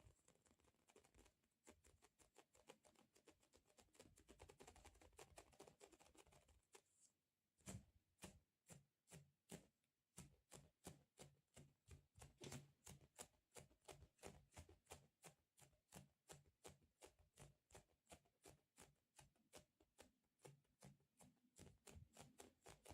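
Fingertips tapping and pulling off a sticky surface, close up. There is soft crackling at first, then from about seven seconds in a steady run of crisp sticky clicks, about four a second.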